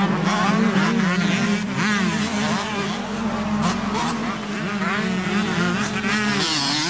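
Several 125cc two-stroke motocross bike engines running together, their pitch rising and falling over and over as the riders work the throttle.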